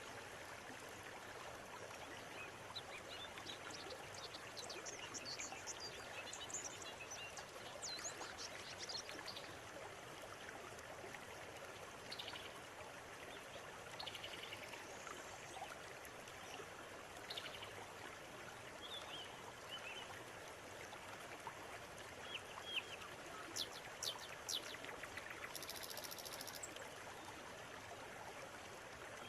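River water running steadily, with scattered bird chirps and calls over it. The sharpest, loudest chirps come in the last several seconds, along with a brief high buzzing trill.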